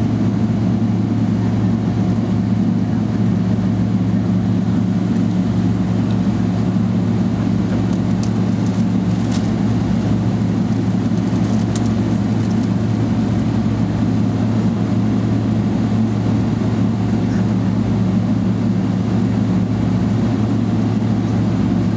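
Steady cabin drone inside a Boeing 777-300ER before takeoff: the GE90 engines at idle and the air-conditioning giving an even low hum with a faint higher tone. A few faint clicks sound around the middle.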